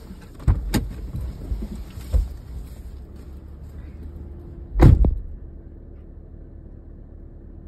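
Outdoor wind hiss with several thumps and knocks, then a car door slamming shut about five seconds in. After the slam only the muffled, steady hum of the idling car is left.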